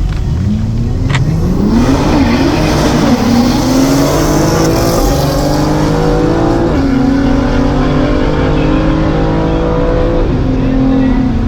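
Performance car engine accelerating hard under full throttle, its pitch climbing steeply over the first few seconds and then rising slowly. The pitch drops suddenly twice, about seven and ten seconds in, as it shifts up a gear.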